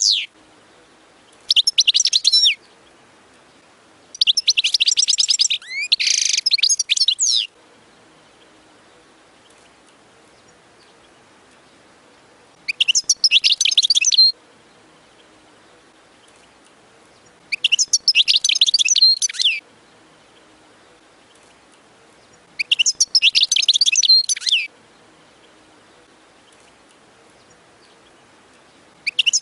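European goldfinch singing: about five phrases of rapid, high twittering, each one to three seconds long, with gaps of three to five seconds between them and another phrase starting at the very end.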